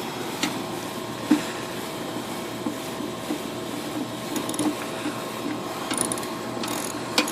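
A steady machine hum with a rough rattle underneath, broken by a few light clicks and knocks, one just under a second and a half in and a sharper pair near the end.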